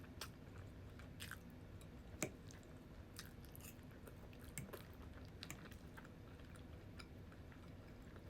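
A person chewing food close to the microphone, quiet wet mouth sounds with scattered small clicks and smacks; one sharper click about two seconds in is the loudest.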